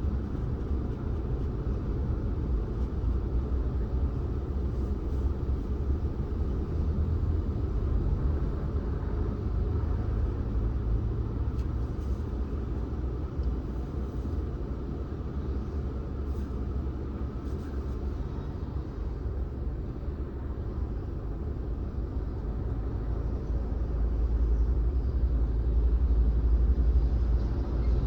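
Steady low rumble of a car being driven, its engine and tyre noise on the road, getting louder near the end.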